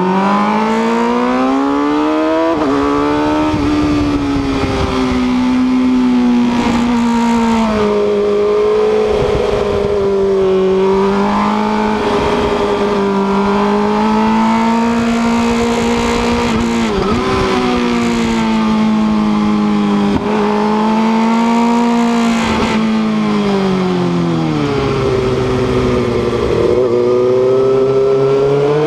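Sport motorcycle engine heard from on board, pulling hard through the gears on a race track: the engine note climbs at the start, rises and dips with the throttle and gear changes, drops away under braking near the end, then climbs again. Wind rush sits under it.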